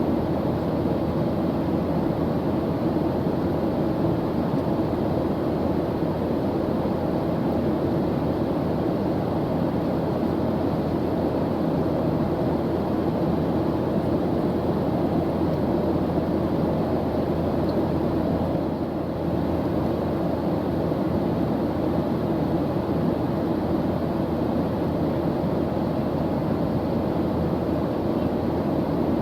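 Airplane engine noise in flight: a steady, low drone that holds an even level throughout.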